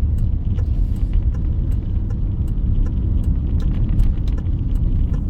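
Steady low road rumble of a car driving, heard from inside the cabin, with light scattered ticks over it.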